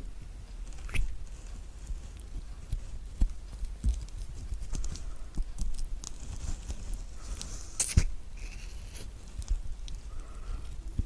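Spoon scooping the flesh out of a halved kiwi fruit: soft scraping with scattered light clicks and taps, the sharpest click about eight seconds in.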